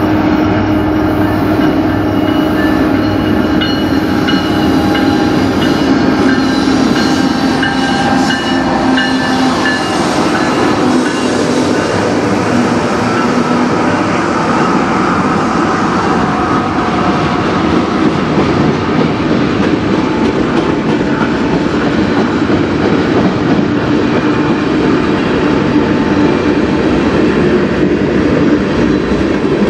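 Freight train passing close by. Three CN diesel locomotives drone steadily as they go past in the first half, then a string of tank cars and hoppers rolls by with continuous wheel-on-rail rumble and clatter.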